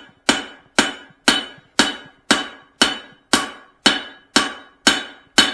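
A hammer striking a hot steel cross peen hammer head on an anvil, drawing out its last side. About two blows a second at an even rhythm, eleven in all, each with a bright metallic ring.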